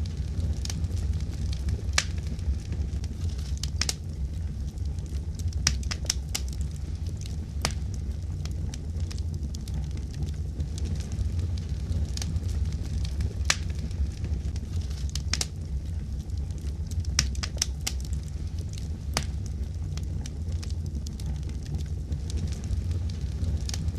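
Wood fire in a fireplace crackling, with a steady low rumble of the flames and irregular sharp pops and snaps every second or so.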